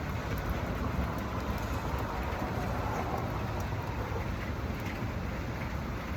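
Steady hiss of rain falling outdoors over a low, even rumble.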